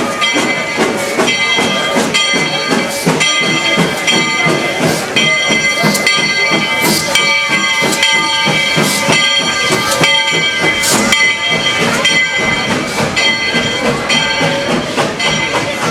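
Steam locomotive #40 working hard uphill: a rapid rhythm of exhaust chuffs with hissing steam, and high steady squealing tones running over them.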